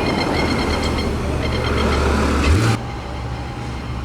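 Car engine running with a strong, low, steady note that rises briefly about two and a half seconds in, then cuts off abruptly, leaving a quieter, steady background of engine and traffic.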